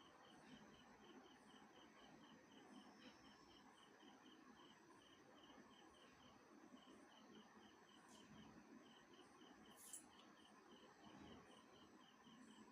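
Near silence, with faint insect chirping, most likely a cricket, repeating evenly at about four chirps a second and pausing briefly partway through. Two brief faint noises come later.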